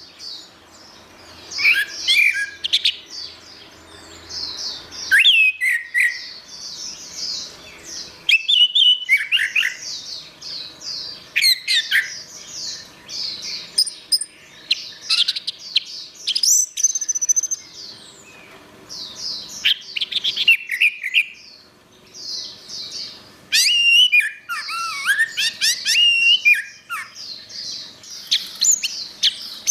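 Orange-headed thrush (anis merah) singing a long, varied song of quick whistled and chattering phrases, in bursts with short pauses between them.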